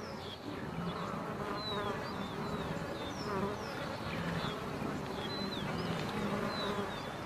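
Flies buzzing steadily, with many short, falling bird chirps scattered throughout.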